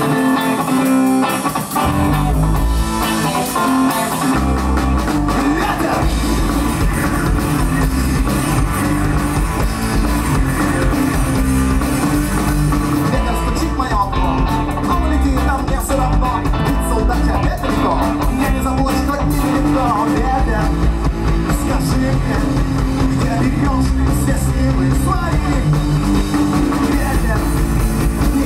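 Rock song played by a band: electric guitar, bass and drum kit, with singing in places.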